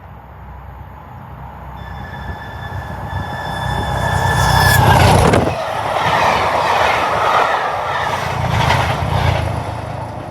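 A train approaching and passing at speed. A steady high whine grows louder and stops as the front goes by about five seconds in, then the carriages rush and rumble past, fading near the end.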